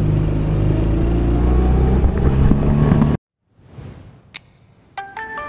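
A motor engine running loudly and steadily, cutting off abruptly a little after three seconds in. After a short silence there is a click, then ringing chime-like tones begin near the end.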